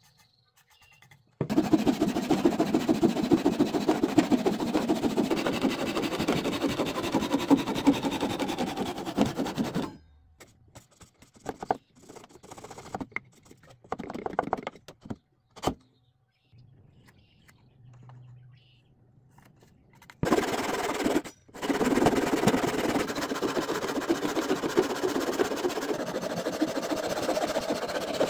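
A saw cutting through wood in two long runs, a rapid, buzzy rasping sound, with scattered knocks and taps of tools and wood in the pause between.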